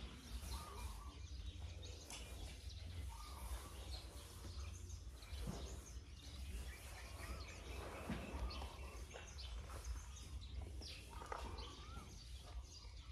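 Quiet outdoor ambience: a steady low rumble with a few short bird chirps. There are scattered soft knocks and rustles while an Asian elephant feeds from a plastic bucket with its trunk.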